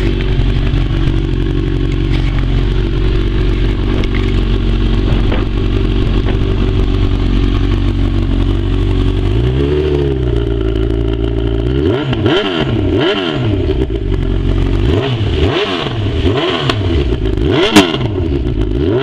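Honda CB1000 inline-four motorcycle engine running at a steady speed, then revved in quick throttle blips from about halfway, rising and falling roughly once a second. There is one sharp crack near the end.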